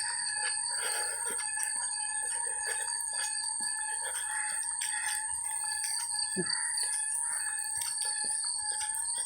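Chickens calling, a rooster among them, over steady high-pitched ringing tones, with occasional faint footsteps.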